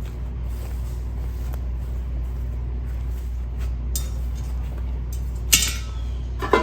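Stainless-steel Solo Stove Ranger fire pit being handled while it is emptied of ash: light clicks, then two sharp metal clinks about a second apart near the end, over a steady low rumble.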